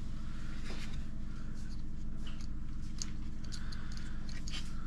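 Steady low hum with faint, scattered small clicks and ticks of parts being handled while the dishwasher drain pump is unbolted.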